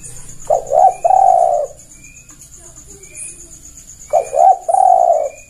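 Spotted dove (tekukur) cooing twice, about three and a half seconds apart; each phrase is two short notes followed by a longer drawn-out note. Faint chirps of another bird sound behind.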